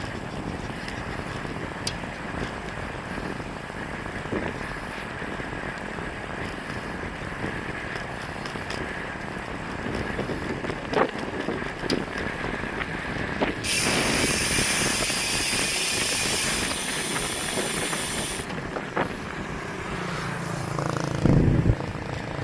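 Brand-new Twitter R5 road bike in motion, with steady rolling noise and scattered sharp clicks: the unexplained clicking the owner is trying to identify. For about five seconds past the middle, a loud high hiss rises over it.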